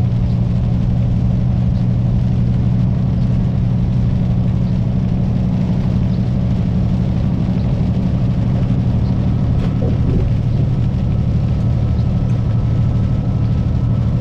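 Kenworth semi truck's diesel engine running steadily, heard from inside the cab as an even low drone.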